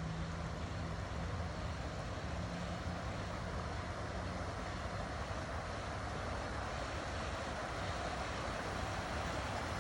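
Stream water flowing over rocks, a steady rushing and splashing.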